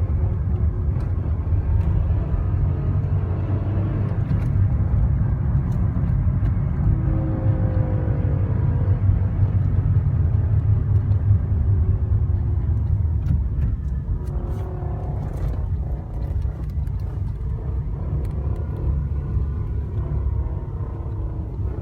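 2006 Honda Civic EX running with a steady low rumble. Faint higher tones come and go briefly twice. This is the unexplained strange noise the owner set out to record.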